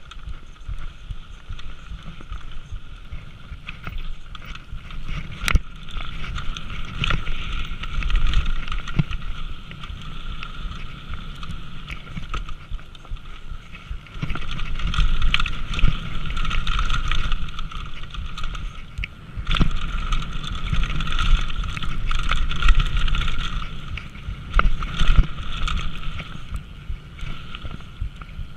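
A downhill mountain bike running fast down a trail: wind on the camera microphone and tyres on dirt make a continuous rumbling noise, with many sharp knocks and rattles from the bike over bumps. The noise grows louder from about halfway through.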